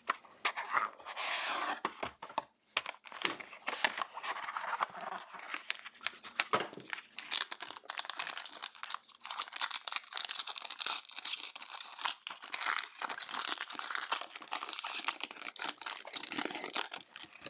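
Plastic wrapping crinkling and tearing as a sealed box of trading cards is unwrapped and opened, a continuous dense crackle.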